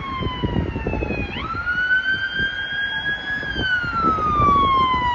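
Emergency vehicle siren wailing on a responding fire apparatus. Its pitch sinks, jumps back up about a second and a half in, climbs slowly, then sinks again. Low road and engine rumble runs underneath.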